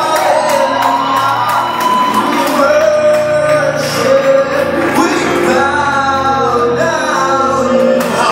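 Live gospel praise music: several voices singing loudly over a band, with a steady beat.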